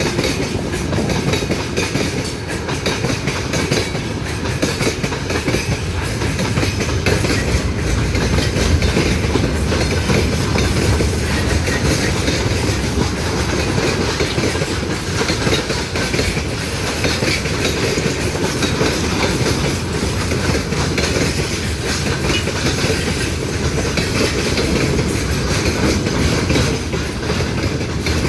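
A train rolling past, its wagons' wheels clattering steadily over the rail joints with a continuous rumble. A brief thin high whine sounds near the end.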